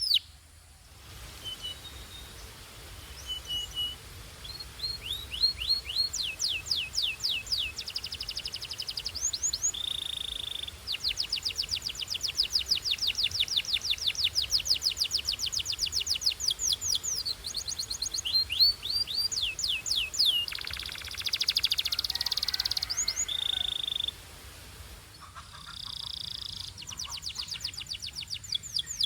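Canary singing: long runs of fast repeated trills and quick upward-sweeping notes, broken by a few short held whistles.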